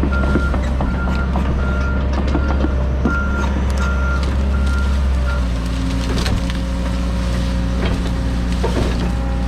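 John Deere 130G excavator's diesel engine running with its travel alarm beeping about once every three-quarters of a second while the machine tracks; the beeping stops a little past halfway and the engine note changes. Scattered knocks and cracks come through over the engine.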